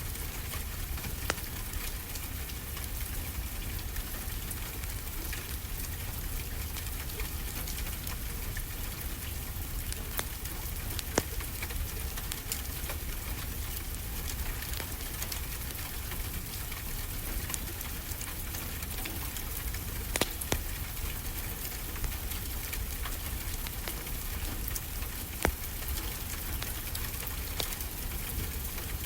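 Steady rain falling, an even hiss, mixed with the crackle of a wood fire: scattered sharp pops and snaps now and then.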